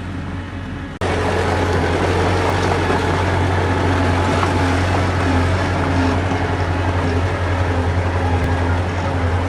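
Heavy diesel engine of earthmoving machinery running steadily with a deep drone. About a second in, the sound cuts abruptly to a louder stretch of the same kind of engine noise.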